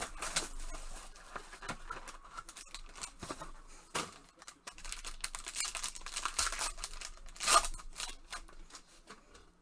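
Trading-card box packaging and cards being opened and handled: irregular rustling, tearing and scraping of wrapper and cardboard, with a louder scrape about seven and a half seconds in.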